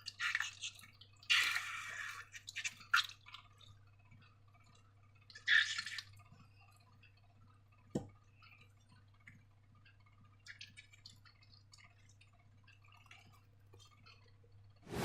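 Slime being handled, giving short wet squelching bursts in the first few seconds and again around the middle, then a single sharp click.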